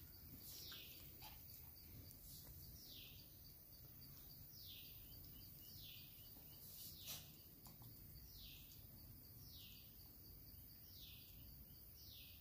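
Faint bird call repeated about every one to two seconds, each a short high note sliding downward, over a faint steady high-pitched hum. A few faint clicks, the sharpest about seven seconds in.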